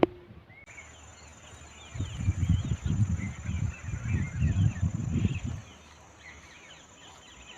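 Small birds chirping over a steady high-pitched insect drone. A loud low rumble runs through the middle for about three and a half seconds, then fades back to the birds and insect.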